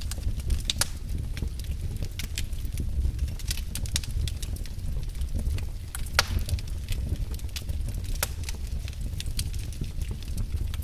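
Fireplace fire crackling: a steady low rumble of the flames with frequent sharp snaps and pops, one louder pop about six seconds in.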